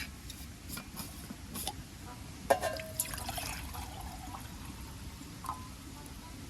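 Camp cookware being handled: a sharp metal clink about two and a half seconds in that rings briefly, and liquid being poured into a vessel, with a few small ticks.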